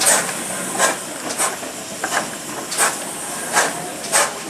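Steam locomotive working with a slow, even exhaust beat: sharp chuffs of steam about three every two seconds.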